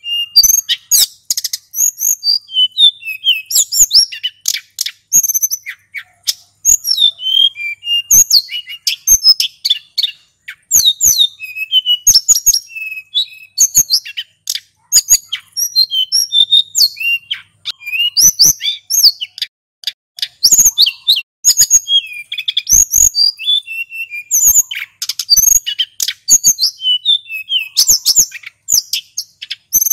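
Male sulingan gunung songbird singing nonstop, rapid varied high-pitched chirps and trills run together in a continuous rolling song, with short sharp clicks between the notes.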